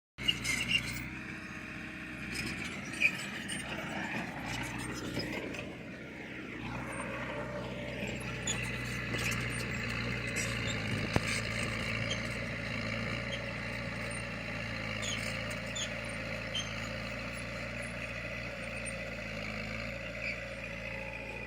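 Bulldozer's diesel engine running steadily, with a few sharp metallic knocks near the start and about three and eleven seconds in; the engine pitch shifts between about four and seven seconds in.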